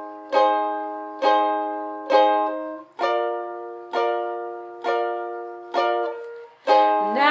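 Ukulele strummed in a slow, even rhythm: eight single strokes, a little under one a second, each chord left to ring and fade. The chord changes about three seconds in.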